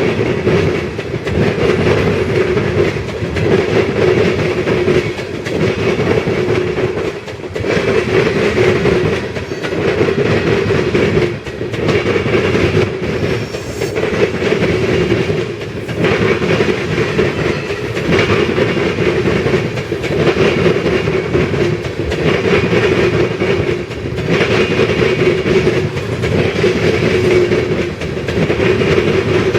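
Loaded freight train of ethanol tank cars rolling past, steel wheels clacking over rail joints, the sound swelling and dipping about every two seconds as each car goes by.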